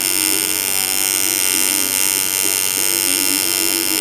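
Coil tattoo machine buzzing steadily as it drives a round needle into skin.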